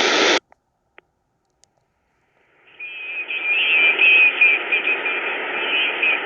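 Belka-DX shortwave receiver playing through its loudspeaker. Its band hiss cuts off abruptly less than half a second in, leaving near silence with a few faint clicks. About two and a half seconds in, the shortwave noise fades back in with thin, broken beeping tones over it.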